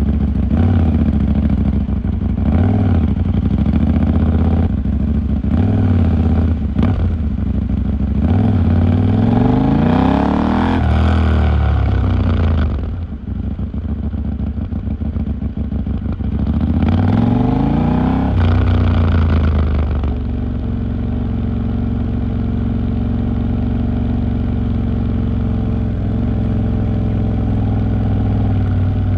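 KTM 890 Duke R's parallel-twin engine riding in traffic, revving up and dropping back several times, with pulls around the middle. Over the last third it holds a steady, even note.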